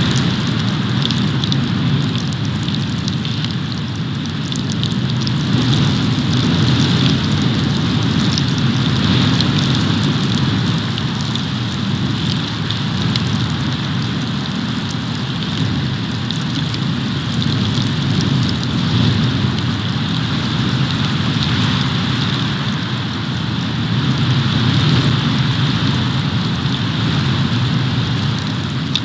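Storm wind on an outdoor nest-cam microphone during a snowstorm: a steady rushing hiss with a low rumble that swells and eases in gusts, and faint scattered ticks.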